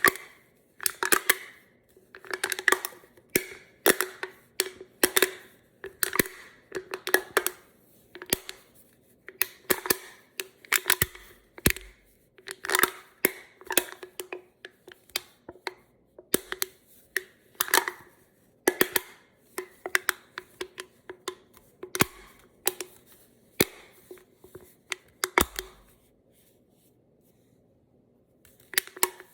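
Tapping on an aluminum drink can: quick clusters of sharp taps, each cluster ringing with a tone from the can, about one cluster every second or so. There is a pause of about two seconds near the end.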